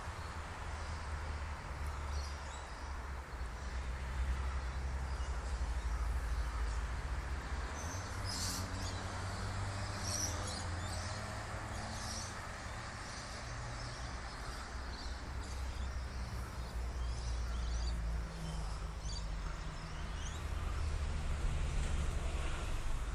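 Birds chirping and calling, busiest in the middle, over a steady low rumble.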